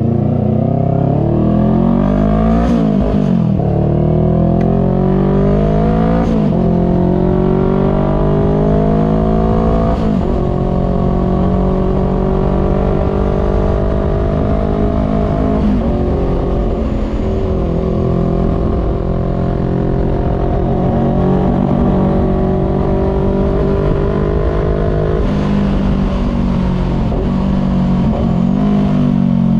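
Voge 500R parallel-twin engine breathing through a full exhaust with no dB killer, accelerating hard through the gears: the pitch climbs and drops at each upshift about 3, 6 and 10 seconds in, then holds a steadier cruise with smaller changes in throttle.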